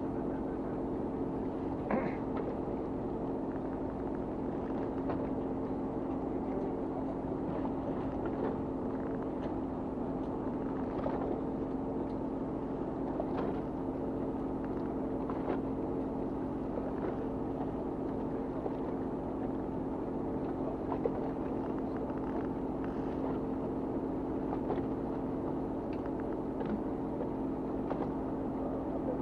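Fishing boat's engine running steadily, a constant low hum, with a few faint knocks scattered through it.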